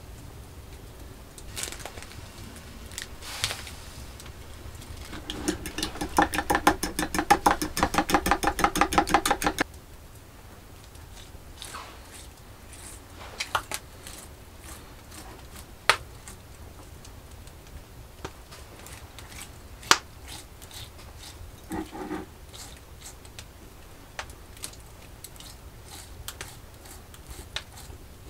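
A quick, even run of taps, about eight a second, lasting about four seconds, then scattered sharp clicks and knocks of handling.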